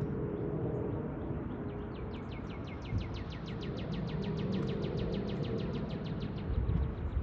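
A small songbird singing one rapid trill of falling notes, about nine a second, starting about two seconds in and lasting about four seconds, over a steady low outdoor rumble.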